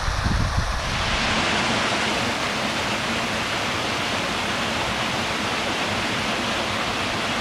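Waterfall rushing close by, a steady full roar of falling water. There is a low rumble in the first second, and the hiss grows brighter about a second in.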